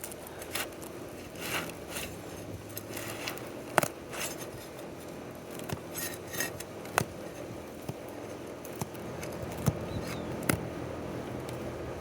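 Asphalt roof shingles being pried loose to break their seal: scraping with several sharp clicks as the tabs are worked up. The shingles are tearing and delaminating as they come up, which the roofer takes as a sign the roof is not repairable.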